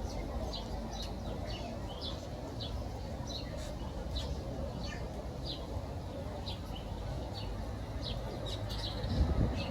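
Small birds in an aviary chirping, short high chirps coming a few times a second, over a steady low background noise.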